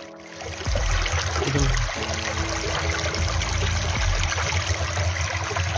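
A stream running through forest, a steady rushing hiss of water with a low rumble underneath. The sound dips briefly at the start and comes back to full level under a second in.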